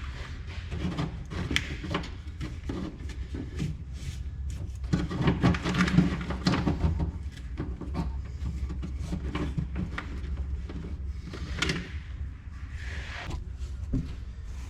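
Hand-work handling noise: irregular clicks, knocks and light rattles from fitting plastic wire loom and brackets over the boat's battery wiring, busiest in the middle. A steady low hum runs underneath.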